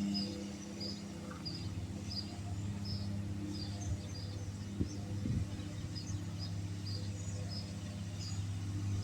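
Lawn mower engine running steadily with a low hum, with high chirps repeating about twice a second over it and two brief knocks about halfway through.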